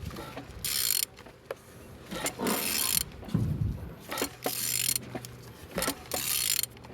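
Ratchet wrench turning a used engine's crankshaft over by hand, clicking in several separate strokes about a second and a half apart. The engine turns freely and is not seized.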